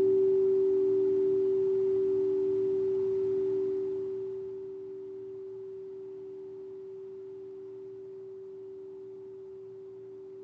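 A sound-bath instrument ringing with a steady, pure tone over a couple of quieter lower tones, loudest at the start and slowly fading, with a clearer drop about four seconds in.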